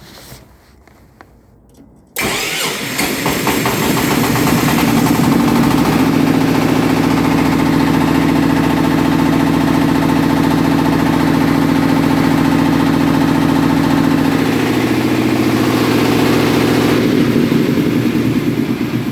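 Engine-driven fire pump started manually: after a couple of seconds of faint clicks the engine catches suddenly about two seconds in, builds for a few seconds and then runs steadily.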